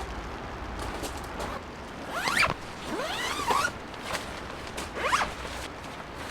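A zipper pulled in three quick strokes, each a rasping sweep in pitch, over a steady background hiss.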